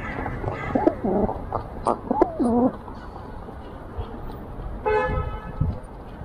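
Feral pigeons cooing, a few low calls that swoop up and down, over steady city traffic hum; about five seconds in a car horn gives one short toot.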